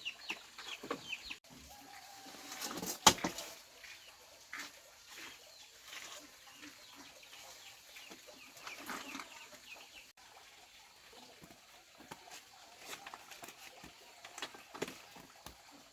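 Chickens clucking and chirping on and off, with a sharp knock about three seconds in.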